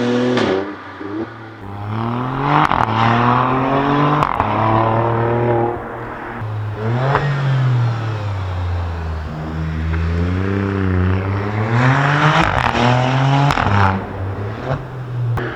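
Supercar engine and exhaust revving and accelerating, its pitch climbing and dropping again and again through gear changes, cut together from several shots.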